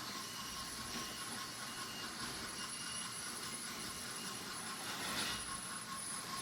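Several battery-powered toy trains running on wooden track: the small electric motors whir steadily while the wheels rattle over the wooden rails, a little louder about five seconds in as one passes closer.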